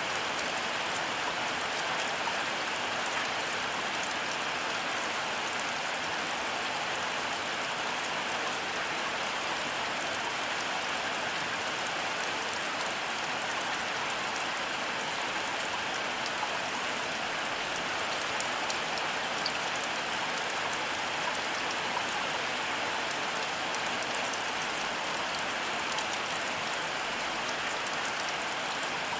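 Heavy rain falling steadily, a dense even hiss of rain with fine patter of individual drops.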